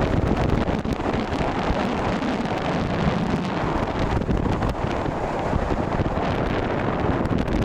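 Steady rushing noise of water moving past an underwater camera as a freediver swims.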